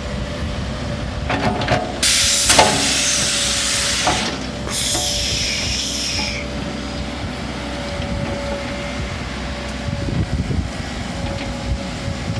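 Heavy truck and excavator engines running with a steady drone and a constant whine, broken by two loud hisses of released air, about two and about five seconds in: a big truck's air brakes.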